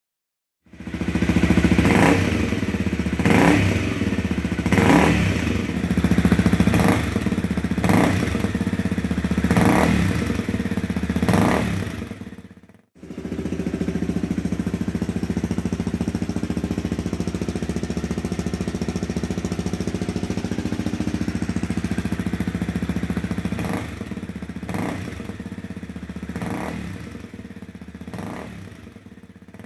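Motorcycle engine running through an aftermarket silencer: revved in a string of short blips for about twelve seconds, then, after a cut, idling steadily with a few lighter blips near the end before fading out.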